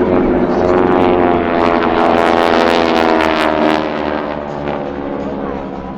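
Two North American SNJ Texans' Pratt & Whitney R-1340 radial engines and propellers in a formation pass, a rasping engine drone whose pitch shifts slightly as they go by. Loudest early on, it falls off after about four seconds as the aircraft move away.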